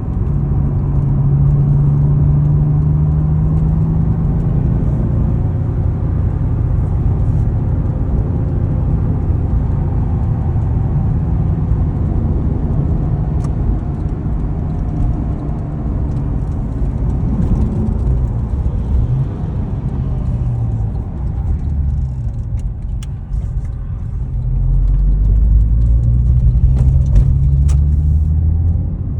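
Porsche 996 911's flat-six engine running with a low rumble, its pitch drifting up and down. It grows louder a few seconds before the end.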